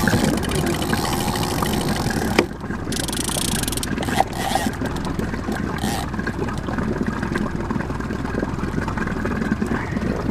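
Fishing boat's motor running steadily at low speed, with a couple of sharp knocks in the first half.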